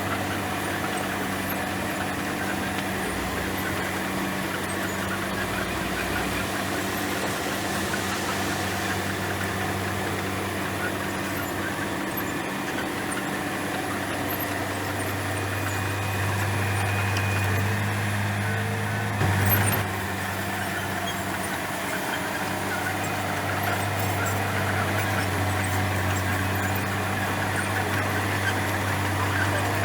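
Komatsu bulldozer's diesel engine running steadily with a low, even hum, swelling slightly in the middle, with one brief knock about two-thirds of the way through.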